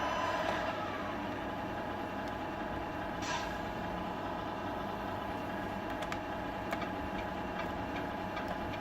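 Electronic sound unit of a Tamiya RC tractor truck playing a simulated truck diesel engine idling steadily through its small speaker, with a short hiss about three seconds in.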